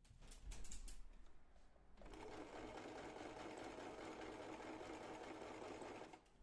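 Sewing machine stitching steadily, starting about two seconds in and stopping just before the end, after a few light clicks in the first second.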